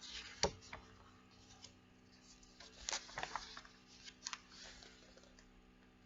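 Handling noise from a picture book: a sharp knock about half a second in, then rustling with clusters of soft clicks and taps about three seconds in and again just after four.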